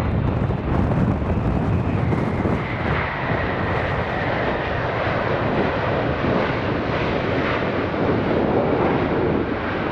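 Boeing 777 jet engines passing close on arrival: a steady, loud jet noise with a faint whine that falls slightly in pitch a few seconds in, and wind buffeting the microphone.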